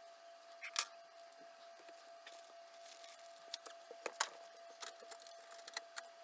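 A series of sharp clicks and light scratchy rustling, the loudest two clicks about a second in and near the middle, over a faint steady thin tone.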